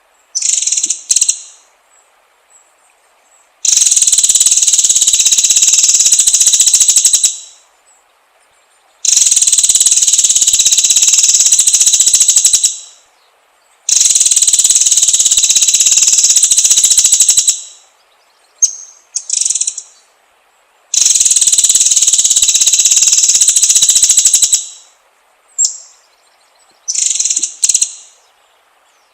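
White-rumped shama (murai batu) singing: a few short high phrases and four long, very rapid trills of about four seconds each, separated by short pauses.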